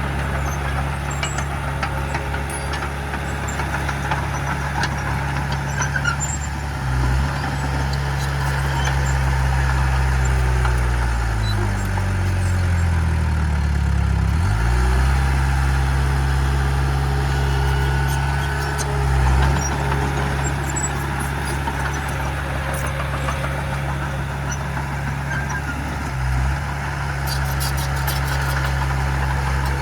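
Heavy earthmoving machine's diesel engine running steadily. About twelve seconds in, its pitch sags and then climbs back up over a few seconds. A few brief thumps come along the way, with light clicking near the end.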